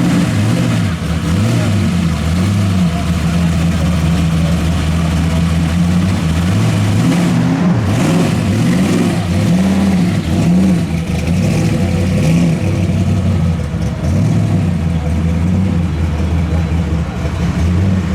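Large car engines running at a deep, steady idle, blipped several times so the pitch rises and falls.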